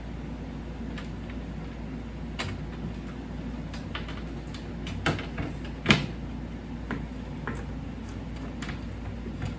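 Scattered short clicks and knocks from handling, the loudest about six seconds in, over a steady low hum.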